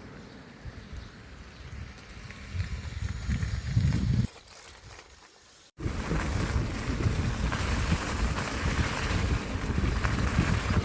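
Wind buffeting the microphone on a moving bicycle. It builds to loud gusts about four seconds in, drops away, then cuts back in just before the six-second mark as a steady rumble with a hiss above it.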